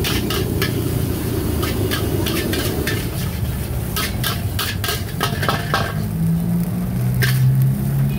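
A metal spatula clacking and scraping against a wok as nasi goreng is stir-fried, with sizzling underneath. A low, steady hum comes in near the end.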